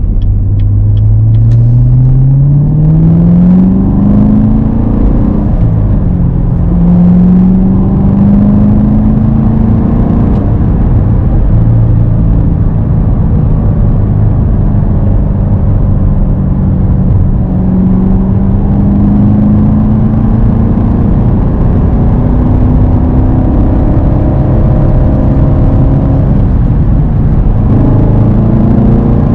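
Corvette C7's 6.2-litre V8 through its NPP dual-mode exhaust, pulling up through the revs, then dropping in pitch at an upshift about five seconds in. It pulls again, then settles into a steady cruise, with another shift near the end.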